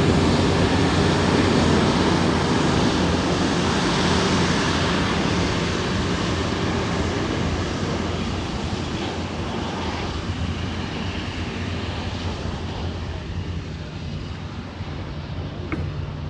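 Jet engine roar of a departing Airbus A350-900, whose engines are Rolls-Royce Trent XWBs, with a steady low hum under it. It fades gradually as the aircraft moves away. A single brief click sounds near the end.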